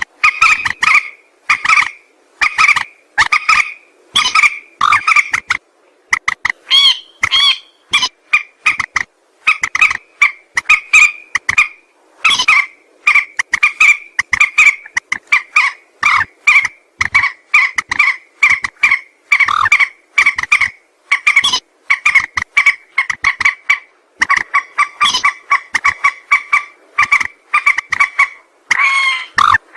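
Mandar sawah, a rail, calling over and over in fast runs of short, clipped notes with a hoarse, honking edge, several notes a second with brief gaps between the runs.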